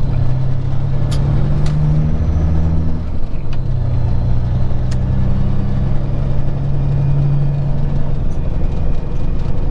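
Peterbilt 379 semi-truck's diesel engine running steadily under road and wind noise, heard from inside the cab while driving. About three seconds in, the engine note dips briefly and settles at a slightly different pitch.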